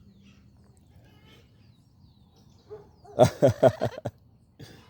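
A quick run of about five laugh-like 'ha' syllables from a voice, given as a prompt for the pets to laugh, about three seconds in, over faint bird chirps.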